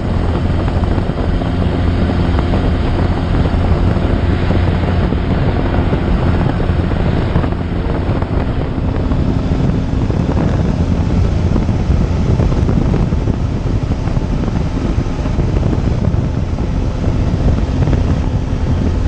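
Steady drone of a small propeller aircraft's engine with rushing wind on the microphone; about halfway through the engine hum gives way to a more even wind noise.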